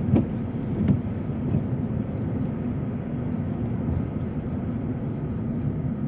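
Steady road and engine noise heard from inside a moving car, a low even rumble, with two short knocks in the first second.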